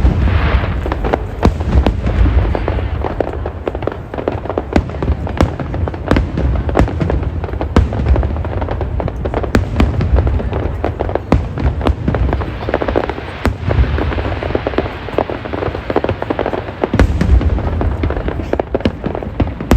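Aerial fireworks going off in quick succession: many sharp bangs and crackles over deep, continuous booming.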